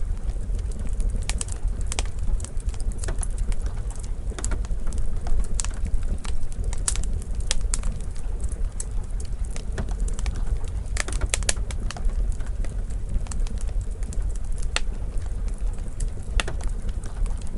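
Wood fire in a fireplace crackling, with irregular sharp pops over a steady low rumble, and a soft even hiss of rain behind it.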